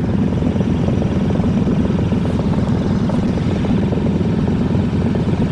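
Motorcycle running at a steady cruising speed, heard from the rider's seat with wind rushing over the microphone: a dense, fast low pulsing that holds steady.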